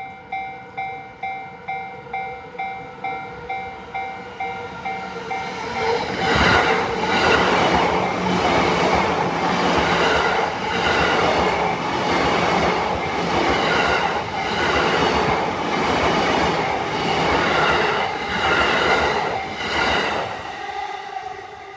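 Japanese level-crossing warning bell ringing about twice a second, then a JR Yamanote Line commuter train passes through the crossing from about six seconds in. Its wheels clatter rhythmically over the rail joints for about fourteen seconds before the noise drops away near the end.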